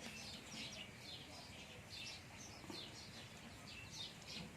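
Faint, rapid high chirps from small birds, several short falling notes a second, over a low background hiss.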